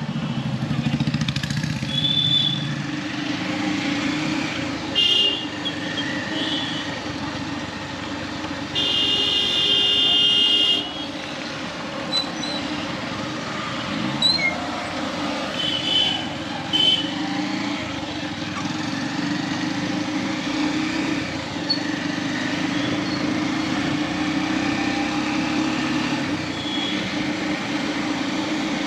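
Motorcycle ride through town traffic: steady engine and road noise, with vehicle horns honking: several short toots and one long horn blast of about two seconds near the middle.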